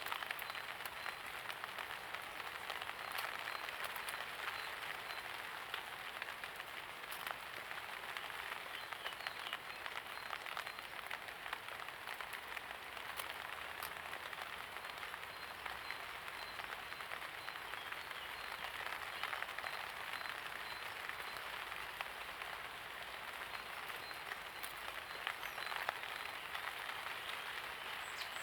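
Steady light rain falling, with many separate drop hits heard through it.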